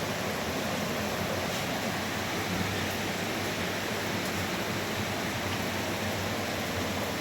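Steady rush of flowing water, an even hiss that holds unchanged throughout.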